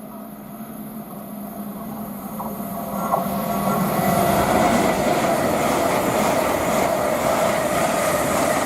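A pair of coupled Class 805 multiple units approaching and running through, their rushing wheel and train noise building over the first four seconds and then holding steady and loud.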